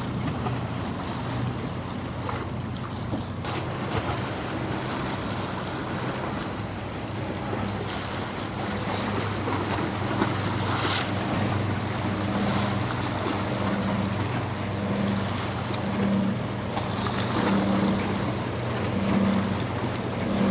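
Boat engines running with a steady low drone, a pulsing hum joining in the second half, over the wash of waves and wind buffeting the microphone.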